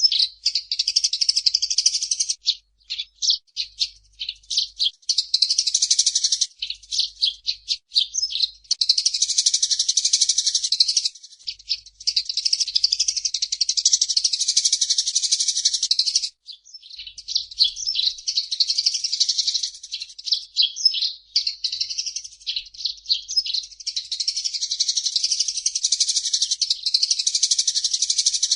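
Eurasian tree sparrow chirping and chattering fast: unbroken runs of rapid high chirps several seconds long, separated by short gaps filled with scattered single chirps.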